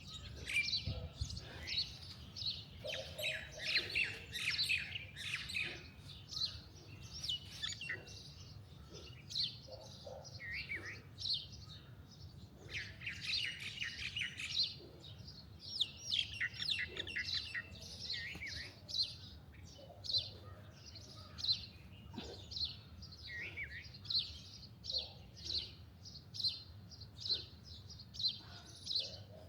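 Wild birds singing and chirping: rapid high trills mixed with short chirps, and in the second half one short call repeating at a steady pace, a little faster than once a second.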